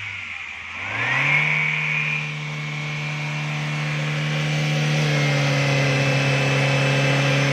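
Chevrolet Beat's engine running; its pitch dips briefly, rises as it is revved up about a second in, then holds steady at the raised speed.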